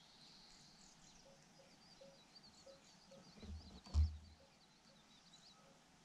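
Faint, quick high-pitched bird chirping. A short low thump comes about four seconds in.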